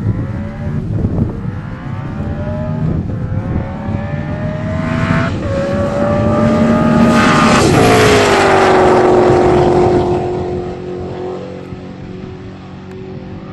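Twin-turbo Ford GT accelerating hard through the gears, the engine note climbing and dropping back at each of about three upshifts. Near eight seconds, at its loudest, the pitch falls sharply as the car passes, then the engine note fades away.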